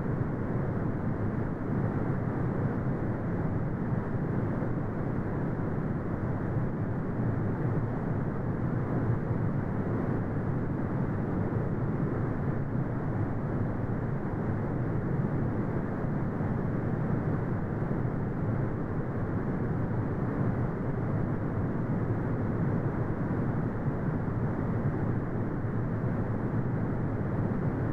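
Synthetic brown noise: a steady, deep rumbling hiss with no changes, its sound cut off above the low midrange.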